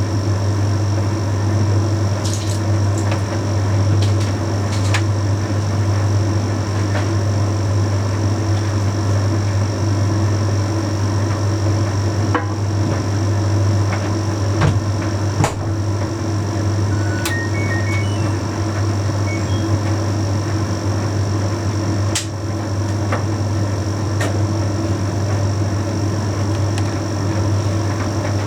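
Bosch Series 6 heat pump tumble dryer running mid-cycle: a steady low hum with a fainter higher whine, and a few light clicks from inside the turning drum.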